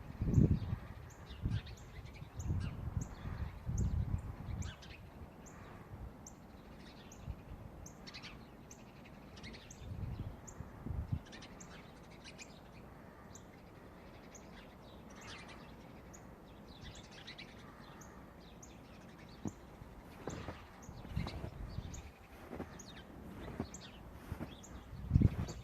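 Small birds chirping, many short high chirps scattered throughout, with bursts of low muffled thumping in the first few seconds, around the middle and near the end.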